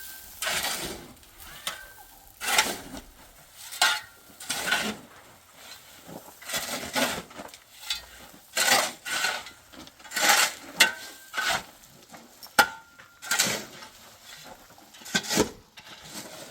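Shovel scraping through cement mortar in uneven strokes, one every second or two, some ending in a brief ringing tone.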